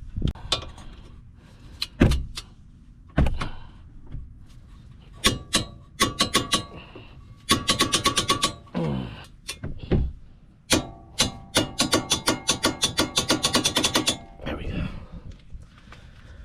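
Ratcheting torque wrench tightening bolts to 80 ft-lb: two runs of rapid ratchet clicks, about ten a second, with single metallic knocks and clanks between them.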